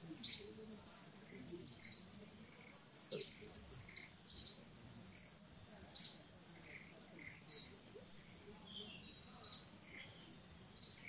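A bird calling again and again with short, sharp, high chirps, each dipping in pitch, spaced irregularly one to two seconds apart, over a steady faint high insect hum.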